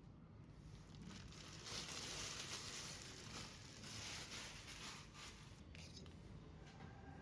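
Faint, irregular rustling and light scraping with small clicks, from handling fish at the start of its cleaning and cutting.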